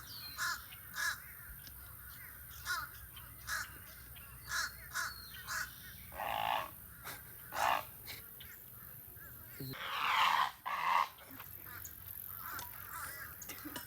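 Birds calling: a series of short, harsh caw-like calls, repeated every half second to a second, with two louder, longer calls about ten seconds in.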